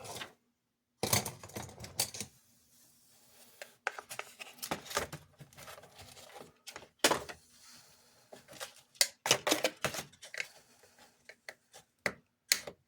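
Hands working on a small plastic toy: irregular clicks, taps and scraping of plastic parts being handled, with no steady motor sound.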